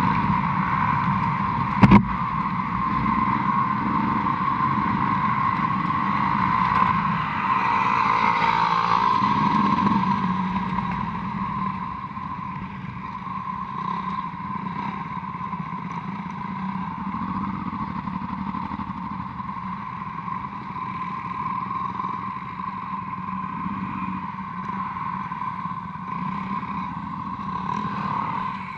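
Honda Transalp motorcycle engine running while under way, with a single sharp knock about two seconds in. The engine note drops to a lower level from about ten seconds in.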